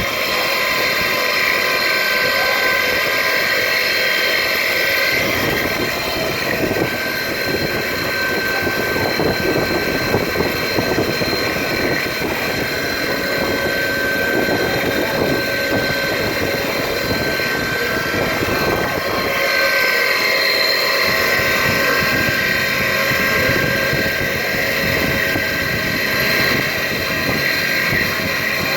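CNC milling machine machining a die-cast part: the spindle whines steadily in several high tones, and a rough cutting noise comes in about five seconds in and lasts until about nineteen seconds in, while the tool is in the cut.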